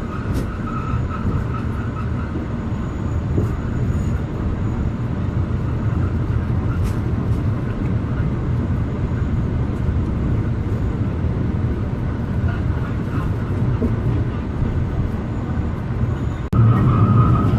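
Alishan Forest Railway train running along the track: a steady low rumble with occasional sharp clicks. A little before the end it cuts abruptly to a louder rumble.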